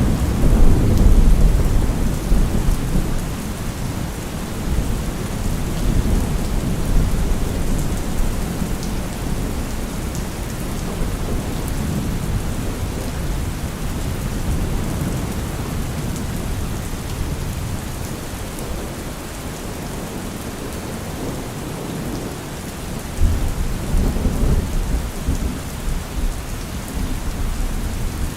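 Steady rain falling, with thunder rumbling low underneath; the thunder is heaviest at the start and swells again about three-quarters of the way through.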